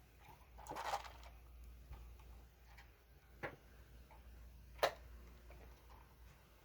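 Small hand-tool noises as screws are backed out with an Allen wrench: a brief scrape about a second in, then a few light ticks and one sharp click a little before five seconds, over a faint steady hum.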